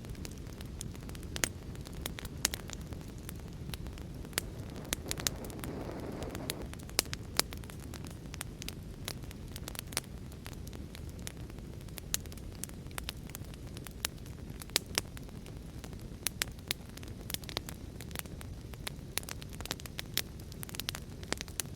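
Wood fire in a fireplace crackling, with frequent irregular sharp pops over a steady low rushing noise. A brief swell of noise comes about five seconds in.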